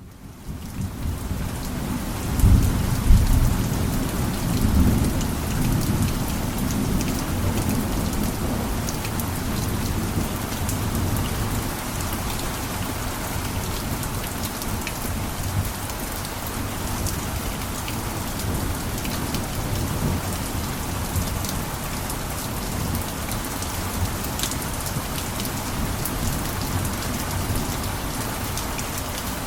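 Steady heavy rain on a roof, with scattered drop ticks, fading in from silence at the start. A low rumble of thunder rolls in about two seconds in and dies away by about six seconds.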